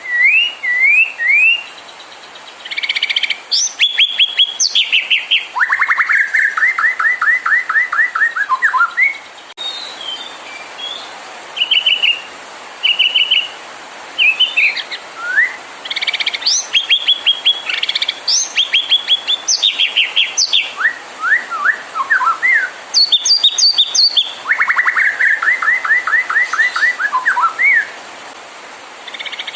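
White-rumped shama (murai batu) singing a varied song: short whistled slurs alternating with fast trills of rapidly repeated notes, delivered in bursts with brief pauses between phrases.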